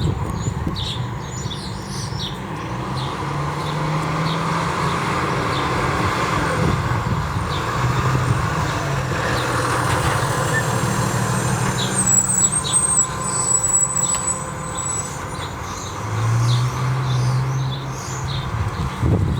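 Fire engine's diesel engine running as the truck drives, its engine note shifting pitch a few times, with general street noise.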